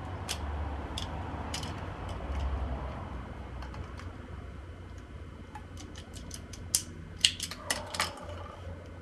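Light scattered clicks and taps of small hard parts being handled, a few sharper ones bunched together near the end, over a steady low hum.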